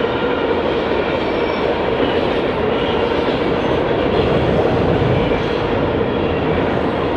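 Train passing by, its railcars' wheels rolling and clicking over the rail in a steady rumble.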